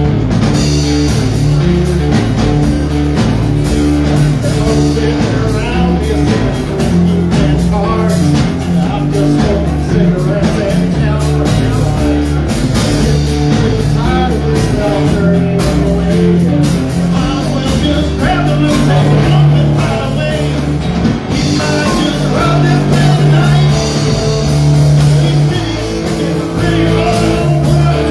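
Live rock band playing a song with drums, bass and electric guitar, with a steady beat and a moving bass line.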